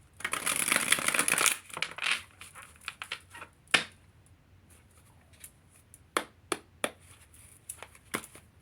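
Tarot cards being shuffled: a dense rustling burst for about a second and a half, then scattered sharp clicks and taps as the cards are handled and squared.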